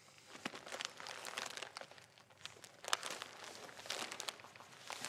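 Paper wrapping of a flower bouquet crinkling quietly as it is held and handled, a scatter of small irregular crackles.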